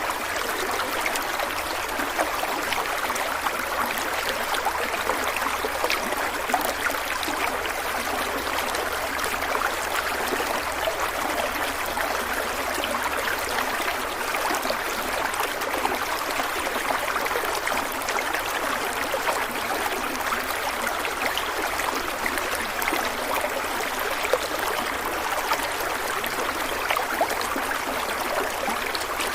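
A stream of water flowing and trickling, a steady rushing with many small splashes and bubbling drops.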